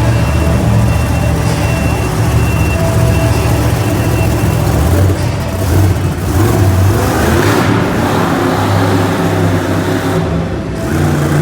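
Monster truck engine running hard and revving during a freestyle run, loud throughout, with a swell of louder, harsher noise about two-thirds of the way through.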